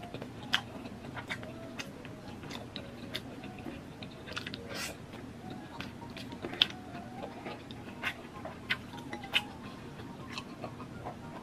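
A person chewing boneless chicken feet, with many short, sharp mouth clicks scattered irregularly throughout.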